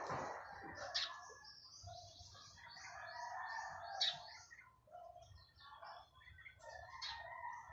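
Birds chirping, with many short, quick notes overlapping and a couple of sharper high calls.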